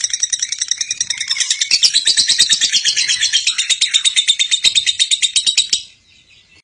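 Lovebird chattering in a long, fast trill ('ngekek') of high chirps, about ten a second, that stops abruptly near the end.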